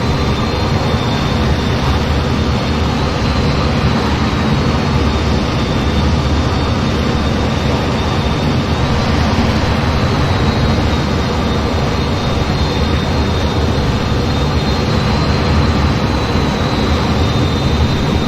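F-15 jet engines running at high power: a loud, steady rushing noise with a thin high whine that holds nearly level, stepping slightly up and down in pitch a few times.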